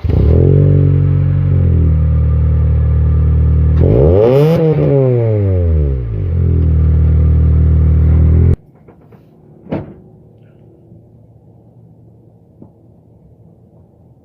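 Car engine and exhaust starting up and idling with a deep, even rumble, blipped once about four seconds in with a quick rise and fall in pitch, then shut off abruptly after about eight and a half seconds. A single sharp click follows about ten seconds in.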